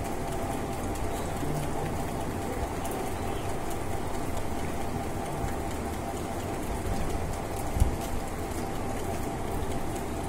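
Steady rain falling, an even hiss, with one brief low thump about eight seconds in.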